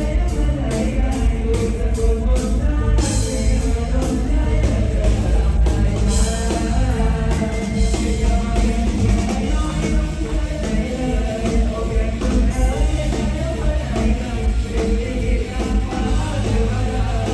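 Live band music with a singer, from a Thai mor lam stage show, over a steady drum and bass beat.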